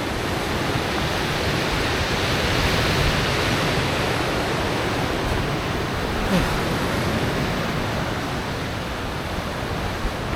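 Steady rush of sea surf mixed with wind on the microphone, swelling slightly a few seconds in.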